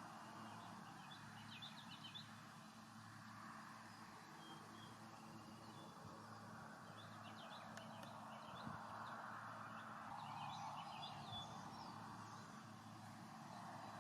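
Wild songbirds chirping faintly in three short bursts of quick high notes, about a second in, around seven seconds in and near ten seconds in, over a steady soft outdoor hiss.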